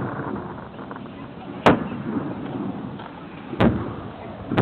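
Firework shells bursting: three sharp bangs, about 2 s, 1 s apart, the first loudest, over a steady murmur of crowd noise.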